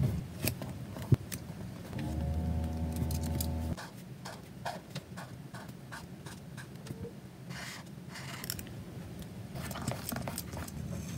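Journaling desk sounds: small clicks, taps and paper rustles of scissors and paper being handled, with a brief low hum about two seconds in.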